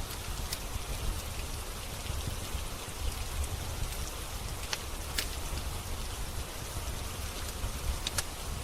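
Steady rain falling, with a low rumble underneath and a few scattered sharp crackles from a wood fire burning in a fireplace.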